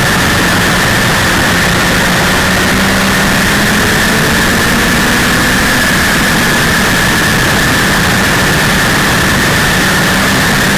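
Super modified race car's 300 cubic-inch straight-six engine running hard and steady, heard from on board, loud and unbroken, its pitch wavering only slightly.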